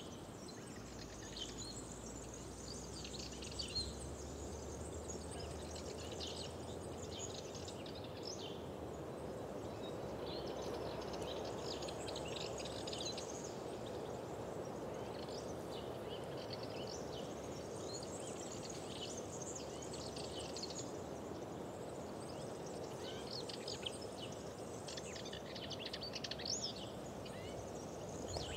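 Small songbirds singing and chirping in short, repeated phrases over a steady outdoor rushing hush that swells in the middle and eases again.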